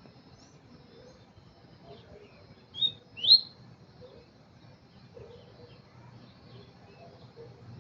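Double-collared seedeater (coleiro) calling: two short, loud high notes about three seconds in, the second a quick upward sweep, with faint scattered chirps before and after.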